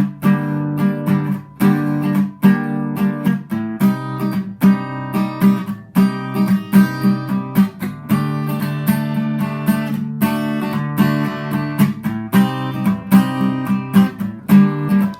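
Acoustic guitar strumming chords in a steady rhythm, the instrumental intro of a song.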